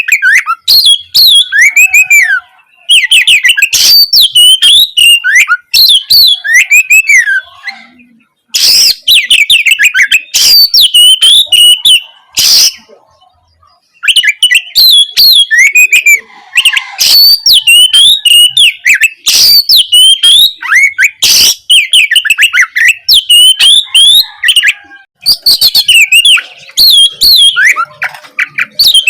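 Oriental magpie-robin (kacer) in full, loud song: fast whistled phrases rising and falling in pitch, mixed with rapid harsh rattling notes. It breaks off briefly about eight seconds in and for about a second around thirteen seconds in.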